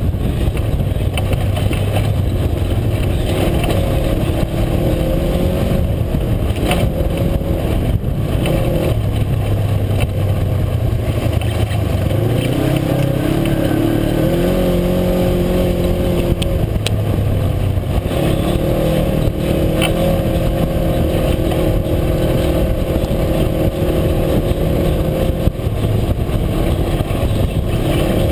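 UTV engine running under way on a trail, its pitch rising and falling with the throttle, with a few sharp knocks along the way.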